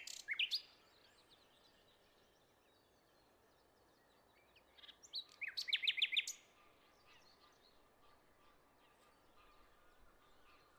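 Songbirds singing outdoors: a short burst of chirps, then quiet with faint distant calls, then a louder run of about eight quick repeated chirps about five seconds in.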